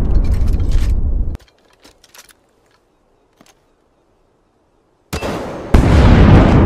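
Loud rumbling, crackling noise that cuts off sharply about a second and a half in, then near silence with a few faint ticks, before the loud noise starts again about five seconds in and jumps louder a moment later.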